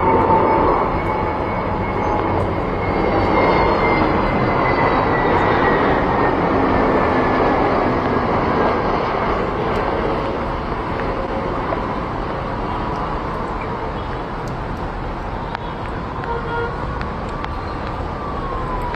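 Aircraft engine noise: a steady rush with a high whine that slowly falls in pitch, loudest in the first half and easing off after about ten seconds.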